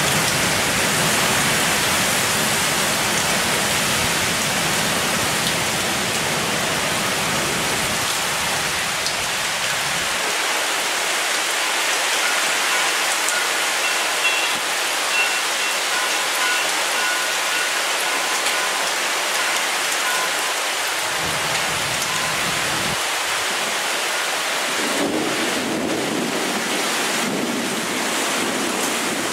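Torrential rain pouring down in a dense, steady hiss, with a low rumble under it for roughly the first ten seconds.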